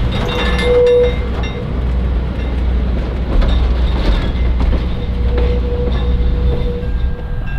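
Diesel-hauled excursion train running on the rails: a steady low locomotive rumble with wheel and rail noise. A single held tone comes in briefly about half a second in and again near the end.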